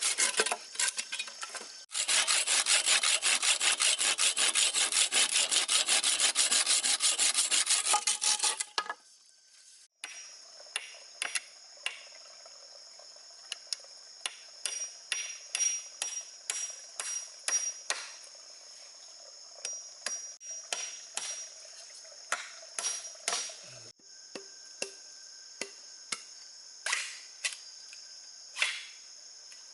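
Wood being sawn for about nine seconds, with a short break about two seconds in. The sawing then stops, and insects trill steadily in the background while irregular sharp knocks and taps go on.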